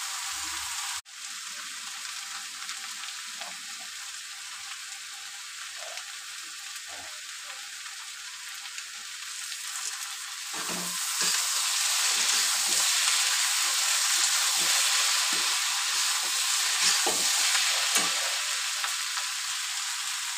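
Green beans and potato pieces sizzling in oil in a steel kadai, with a metal spatula stirring and scraping against the pan. The sizzle grows louder about halfway through, when the stirring starts, and the spatula knocks come every second or so after that.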